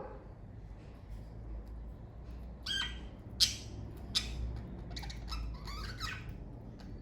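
Pet budgerigars giving short, scattered chirps and squawks, the sharpest about three and a half seconds in and a quick run of calls near six seconds, over a low steady hum.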